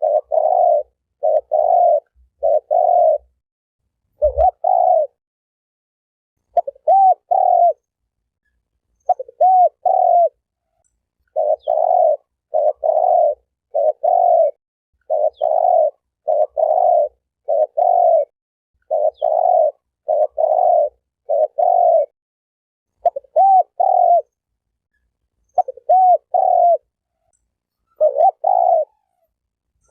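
Spotted dove cooing: short low coos repeated in groups of two or three, with brief silent pauses between the groups.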